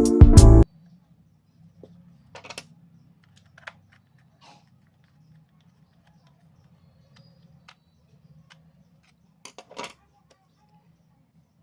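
Background music cuts off abruptly within the first second. After that come faint, scattered clicks and taps over a low steady hum, with a short cluster of clicks near the end.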